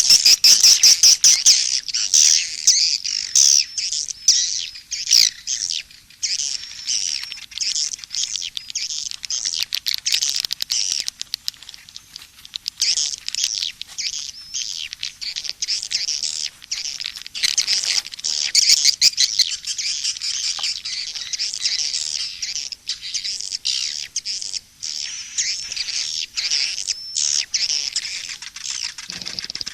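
Swiftlets twittering in a dense, unbroken chatter of high chirps and rapid clicking trills. This is a mixed swiftlet call track (suara panggil, 'calling sound') of the kind played to lure swiftlets to a nesting house.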